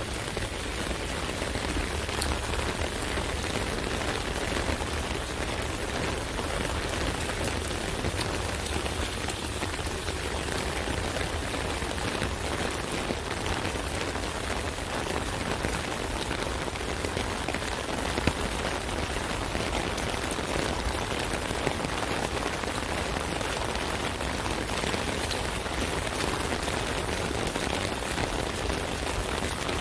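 Steady rain pattering on an umbrella canopy, a dense even patter of drops with a single sharper drop tick about 18 seconds in.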